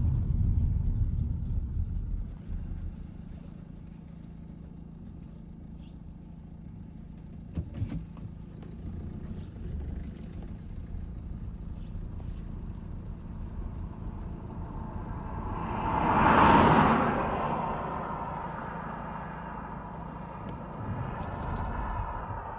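Motor vehicle running with a steady low rumble. About 16 seconds in, a vehicle sound builds to a loud peak and then fades, like a vehicle passing close by.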